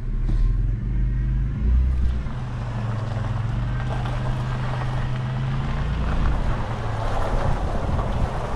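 Car engine running with a steady low hum, joined over the second half by a rising rushing noise.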